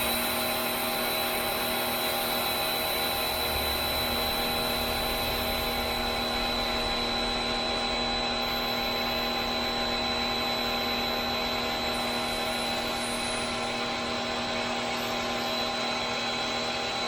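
Sun Joe electric pressure washer's pump motor starting up and running steadily with a steady whine as it sprays a bleach and soap solution, with the hiss of the spray.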